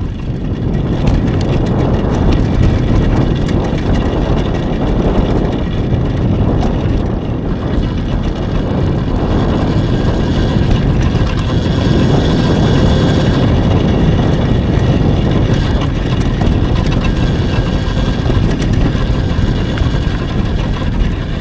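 Steady wind rumble on the microphone with tyre and ride noise from a moving electric dirt bike.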